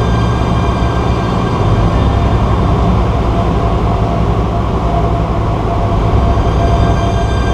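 Cessna 150's Continental O-200 four-cylinder engine and propeller droning steadily, heard from inside the cockpit.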